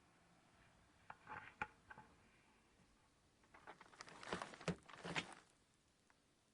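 Bed frame squeaking and creaking in two bouts: a short one about a second in, then a longer run of creaks and clicks around the middle.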